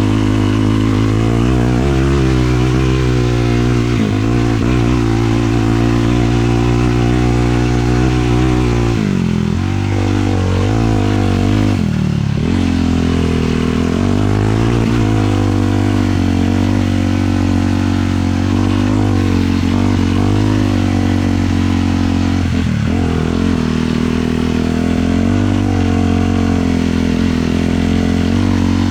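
450cc single-cylinder sport quad engine running under steady throttle while riding. The pitch drops and climbs back a few times as the throttle is eased off and reopened.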